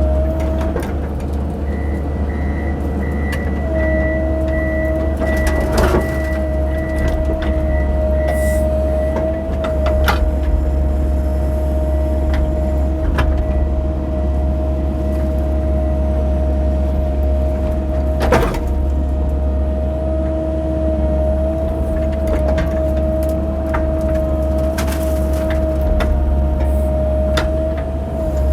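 Cat 308 mini excavator's diesel engine running steadily under digging load, with a steady whine that drops out briefly a couple of seconds in. A few sharp knocks from the bucket working the ground, the loudest about eighteen seconds in.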